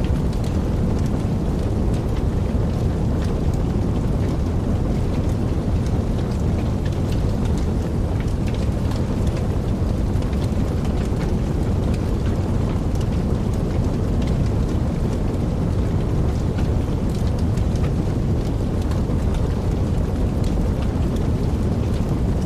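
Wood fire burning in a fireplace: a steady low roar of the flames with frequent small, irregular crackles.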